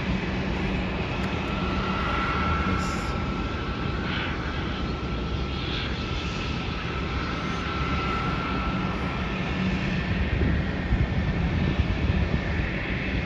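Airliner engines running steadily at a distance over a constant low rumble, with a thin high whine from about two to eight seconds in.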